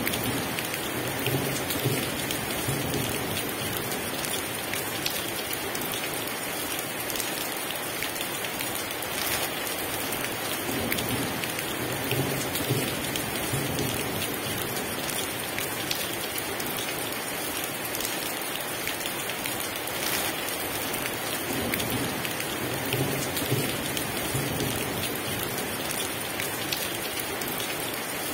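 Heavy rain falling steadily, with low rolls of thunder rumbling three times, about eleven seconds apart.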